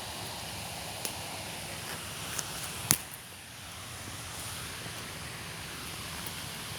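Steady outdoor background hiss with a single sharp click about three seconds in.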